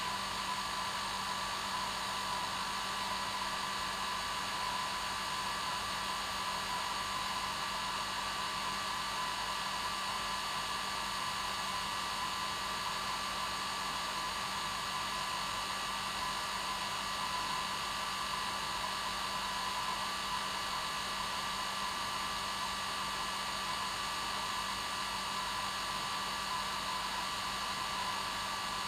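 Hair dryer running steadily on one setting: an even, unchanging blowing noise with a steady motor hum.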